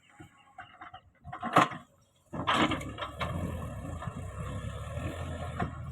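A few scattered knocks and one sharp knock, then about two seconds in a heavy diesel engine starts to be heard abruptly and runs steadily.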